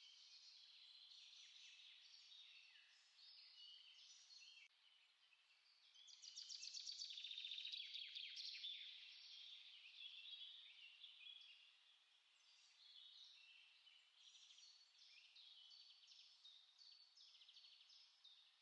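Small songbirds chirping and singing, faint, many short high notes overlapping, with a louder rapid trill from about six to nine seconds in.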